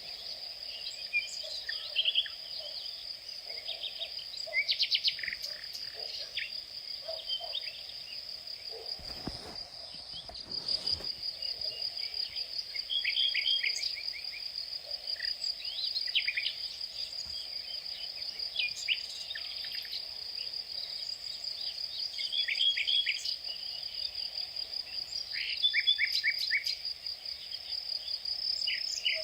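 Outdoor insect chorus: a steady, high, finely pulsed trill of crickets or similar insects, with short runs of bird chirps over it. A brief low rumble comes near the middle.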